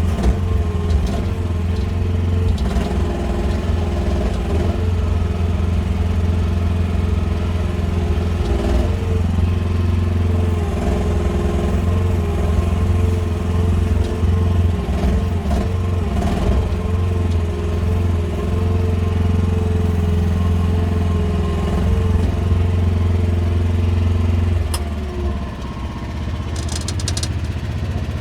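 QH13R mini excavator's engine running steadily under load, with a wavering whine over it as the machine is worked. The engine note drops and quietens near the end.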